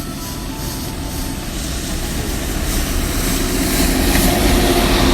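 Low engine rumble of a motor vehicle, growing steadily louder as it approaches.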